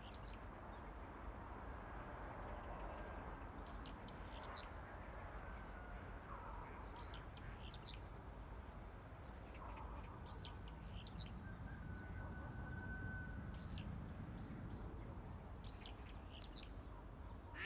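Birds chirping, short high calls scattered every second or two over a faint steady low rumble of outdoor background noise.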